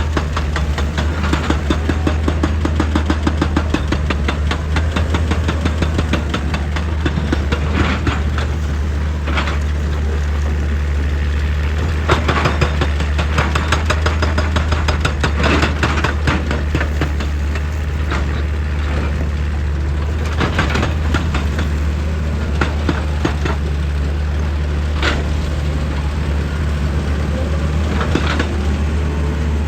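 Diesel excavator engine running steadily at work, with irregular loud crunches and scrapes of the bucket against rock every few seconds.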